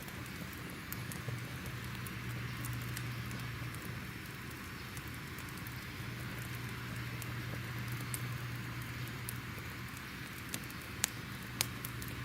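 Crackling fire: irregular sharp pops and snaps over a soft hiss and a steady low hum, with two louder pops near the end.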